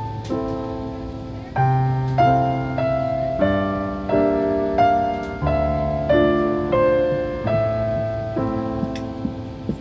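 Gentle piano music: a slow run of notes and chords, each struck and left to fade, a new one about every half second to second.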